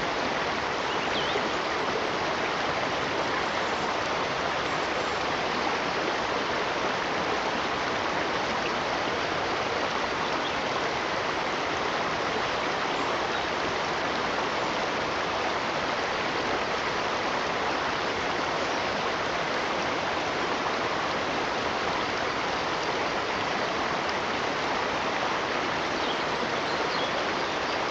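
A stream running, a steady even rush of water that does not change.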